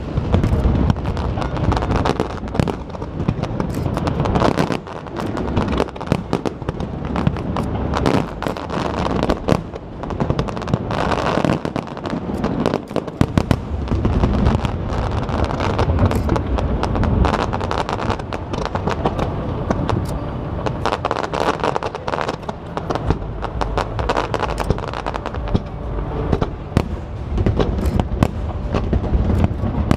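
Aerial fireworks display: a dense, continuous run of bangs and crackling reports.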